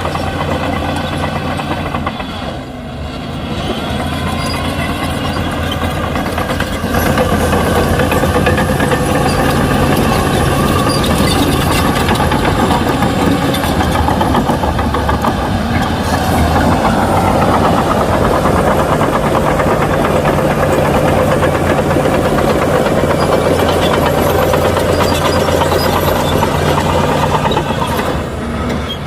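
Shantui heavy bulldozer's diesel engine running steadily. It dips briefly a few seconds in, grows louder about a quarter of the way through and holds there, then drops briefly near the end.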